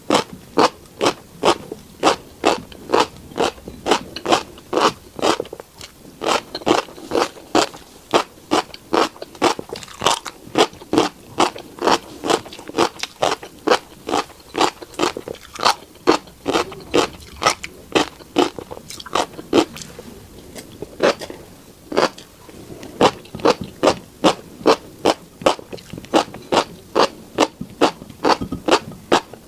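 Close-up chewing of crunchy tiny black seeds, an even run of crisp crunches at about three a second, slackening briefly about two-thirds of the way through.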